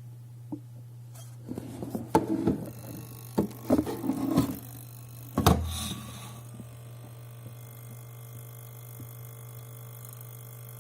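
A steady low electrical hum with a run of clicks and knocks from objects being handled, ending in a loud thump about five and a half seconds in.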